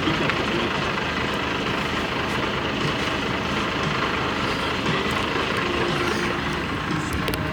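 Steady machinery drone, with a few faint clicks near the end.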